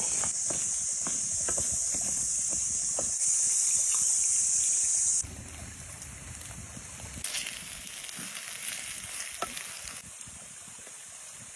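Food sizzling and crackling in a hot pan: a steady high hiss with scattered pops and stirring clicks. It drops abruptly to a quieter sizzle about halfway through.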